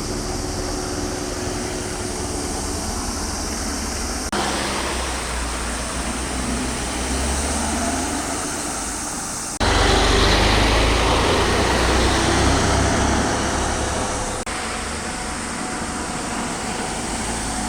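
Road vehicle and traffic noise with a steady low rumble, in several short clips that cut abruptly from one to the next; the loudest stretch comes about ten seconds in and lasts some four seconds.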